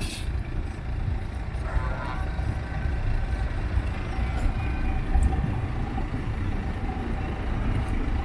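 Low, steady rumble of a classic vehicle's engine driving past, with a short pitched sound about two seconds in.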